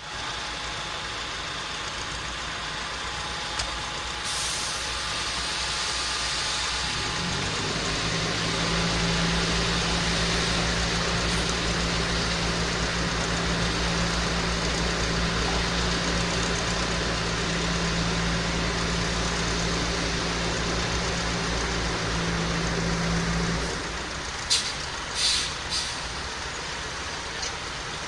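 Heavy diesel road-works vehicle running: a steady engine hum comes in at about eight seconds and stops at about twenty-four, over a constant background of traffic noise. Short hissing bursts come near the start and again near the end.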